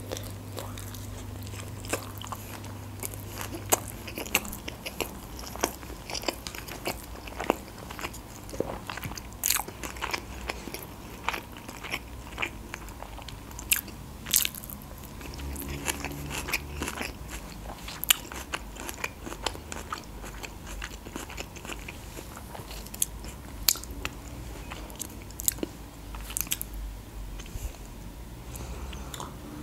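Close-miked chewing of a mouthful of baked sushi pizza roll topped with melted cheese: many sharp, irregular mouth clicks with no steady rhythm.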